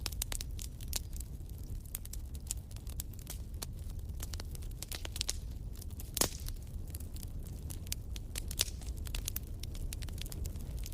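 Wood fire crackling in a fireplace: fast, irregular snaps and pops over a low steady rumble, with one louder pop about six seconds in.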